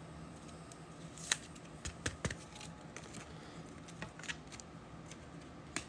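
A few faint, scattered clicks and taps over a low steady hum: small handling noises at a table.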